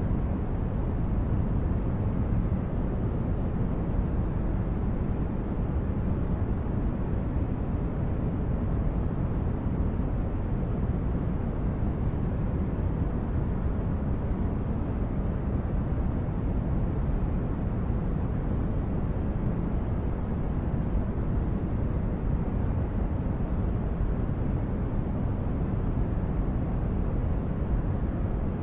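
Starship-corridor ambience: a steady deep noise, strongest in the low end and thinning toward the highs, like brown noise, with no changes or events.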